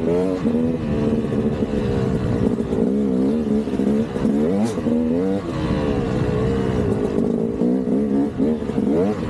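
KTM 200 dirt bike's single-cylinder two-stroke engine revving up and down as the throttle is worked, its pitch rising and falling again and again every second or so.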